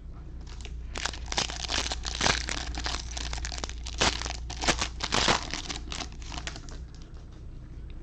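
Foil wrapper of a trading-card pack crinkling as it is torn open and crumpled. The crackling is dense with several sharp, louder crackles through the middle, then fades out near the end.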